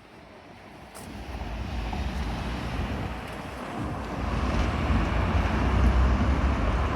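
Road traffic: a vehicle's rumble and tyre noise come up about a second in and grow steadily louder as it approaches.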